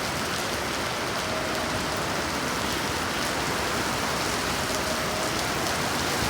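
Heavy rain falling steadily and pattering on surfaces, an even hiss.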